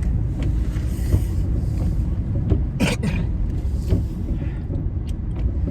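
Low, steady rumble of a car driving, heard from inside the cabin, with one brief sharp sound about three seconds in.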